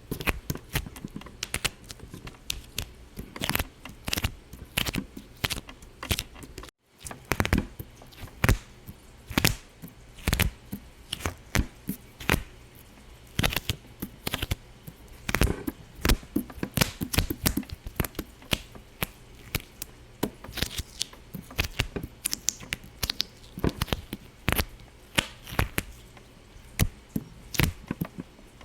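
Many sharp pops, coming at an irregular pace of a few a second, broken by a sudden brief dropout about seven seconds in.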